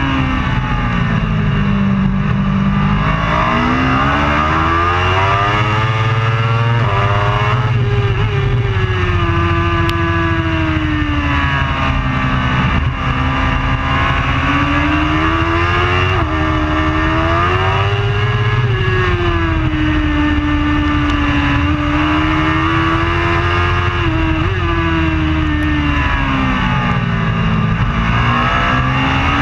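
A superbike's engine at racing revs, its pitch repeatedly falling and climbing again as it slows for corners and accelerates out, with a few sudden steps in pitch at gear changes.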